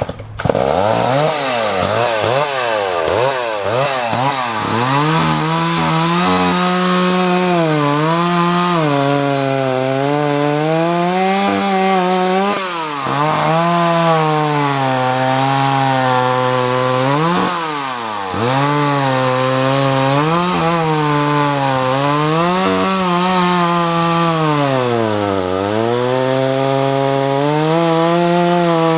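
Vintage Homelite 330 two-stroke chainsaw firing up and revving in quick up-and-down blips, then cutting wood at full throttle. Its engine pitch sags under load and recovers, dropping sharply twice as the throttle eases off between cuts.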